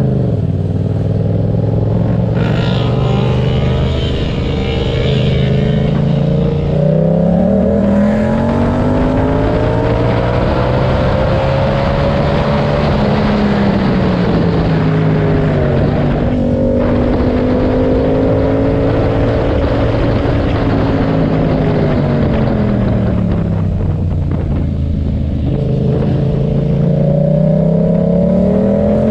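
Yamaha MT-07's 689 cc parallel-twin engine, fitted with an SC-Project aftermarket exhaust with dB killer, heard from on board the moving bike: the engine note climbs through a gear, drops back, holds steady for several seconds, drops again and climbs once more near the end. Wind rushes on the microphone throughout.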